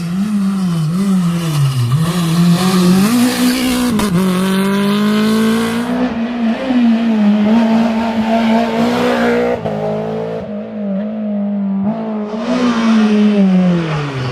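Renault Clio Williams rally car's four-cylinder engine driven hard, its pitch rising and falling over and over as it accelerates, lifts off and changes gear.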